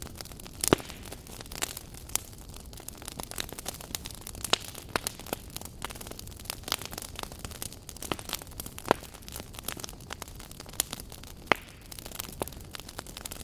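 Wood fire burning in a fireplace: irregular sharp crackles and pops over a steady low hiss, with one loud pop a little under a second in.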